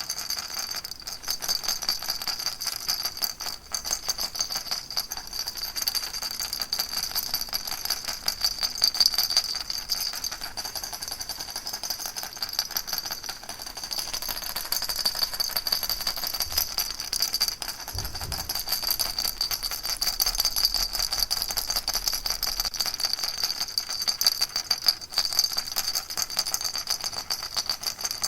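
Baby rattle shaken continuously: a fast, even stream of small rattling strokes with a bright, jingly high ring.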